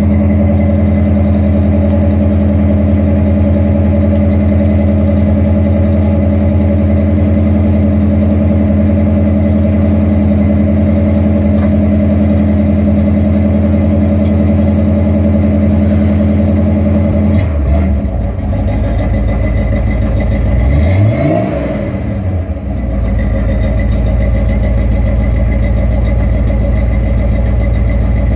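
1982 Corvette's carbureted 350 V8 idling steadily on the choke. About 17 seconds in the idle drops lower as the choke comes off, and a few seconds later a brief rev rises and falls before the engine settles into a lower, steady idle.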